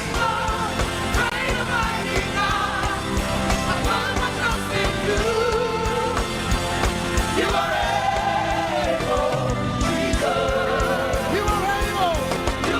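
Live gospel praise music: voices singing a wavering melody over a full band with a steady beat.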